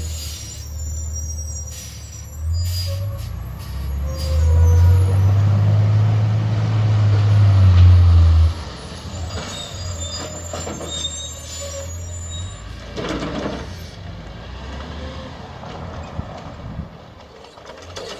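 Diesel engine of a garbage truck revving up and holding high for several seconds, then dropping back suddenly to a lower hum. About two-thirds of the way in there is a short burst of air hiss.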